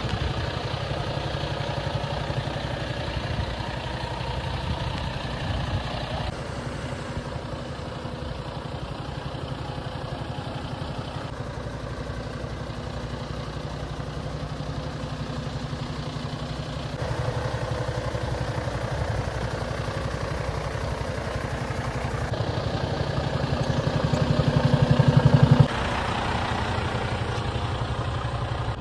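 Diesel engine of a Mercedes Actros 1827 lorry, a 7.7-litre straight-six, idling steadily. Near the end it grows louder for about two seconds, then drops back sharply.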